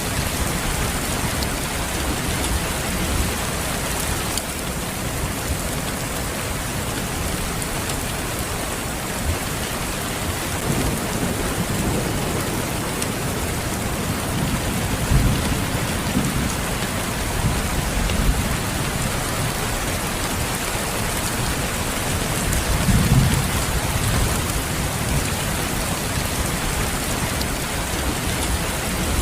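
Steady heavy rain falling, with low rumbles of thunder swelling a few times.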